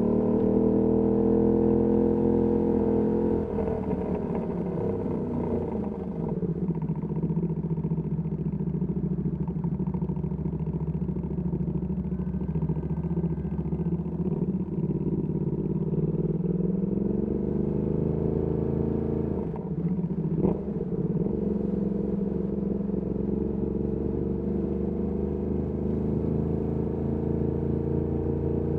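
Ducati Panigale V2S motorcycle engine through a Termignoni exhaust, ridden at low speed. The pitch drops a few seconds in as it slows, then holds steady at low revs, then climbs again as it pulls away. There is a single sharp click about two-thirds of the way through.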